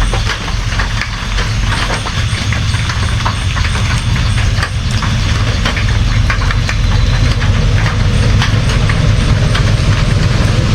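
Steady rain, with many separate drops ticking close by over a constant deep rumble.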